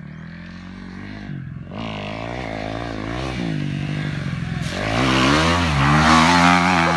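Kawasaki 250 motocross bike engine revving up and down repeatedly through the gears, growing louder and loudest from about five seconds in.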